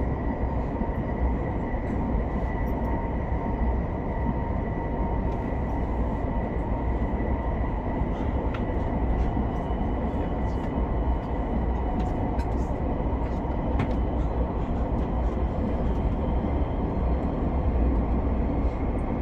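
Steady running noise inside the passenger cabin of an SRT high-speed train (SR 120000-series electric multiple unit): a deep rumble and the rush of wheels on rail, with a thin steady high tone and a few faint ticks.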